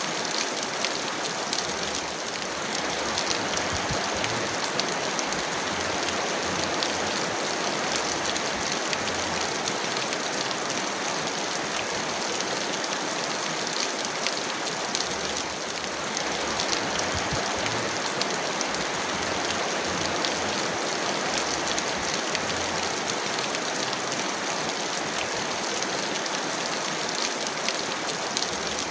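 Heavy rain falling steadily: a dense, even hiss peppered with many small drop ticks.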